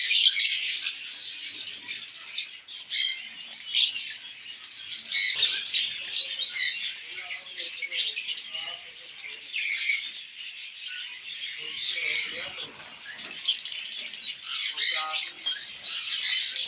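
A colony of budgies and lovebirds chattering all at once: a dense, unbroken mass of high chirps and sharp squawks from many birds.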